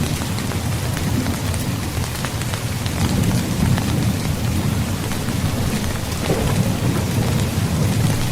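Heavy rain falling steadily, with thunder rumbling low underneath, swelling about three seconds in and again near the end.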